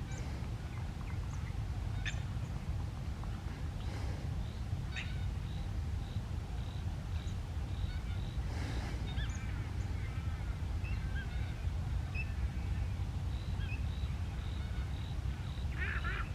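Birds calling outdoors: scattered chirps, one bird repeating a short high note at an even pace through the second half, and a louder call with a few quick notes near the end, over a steady low rumble.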